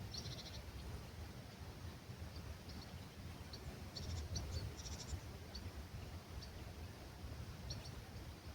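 Small birds chirping faintly in short, high notes, in quick clusters near the start and again about four to five seconds in, with single notes scattered between, over a soft low rumble of breeze.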